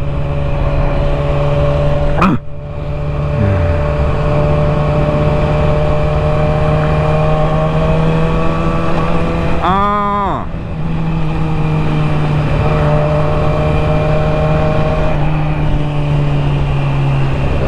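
Motorcycle engine running steadily under way. The engine note breaks off sharply about two seconds in, and again about ten seconds in, where its pitch briefly dips and climbs back.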